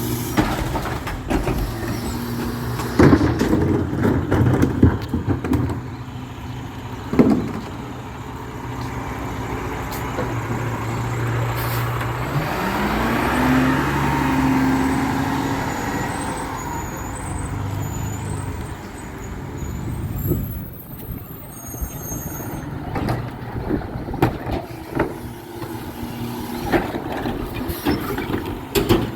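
Garbage truck working: its diesel engine runs, revs up about twelve seconds in and holds high for a few seconds. Sharp metal bangs and clanks come through, loudest a few seconds in and again near seven seconds.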